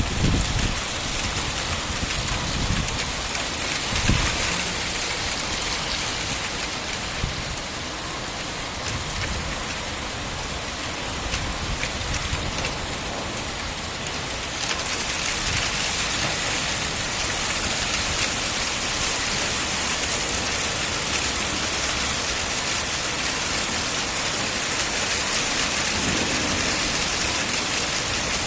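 Heavy thunderstorm rain falling steadily, with low rumbles of thunder in the first few seconds. The rain grows louder about halfway through.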